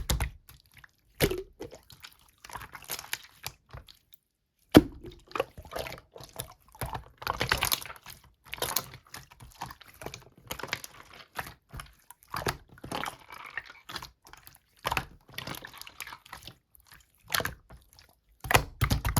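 Slime being pressed and squished by hand, making an irregular run of sticky clicks, pops and crackles, with a sharp snap about five seconds in.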